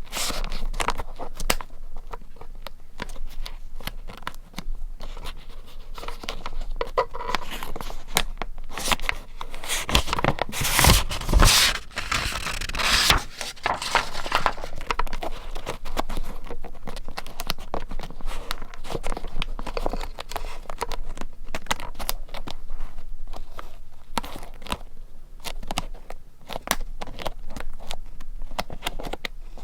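Paper being handled for vintage scrapbooking: close-up rustling, scraping and tearing of paper, with scissor snips, in a dense run of short crackly strokes, loudest about a third of the way in.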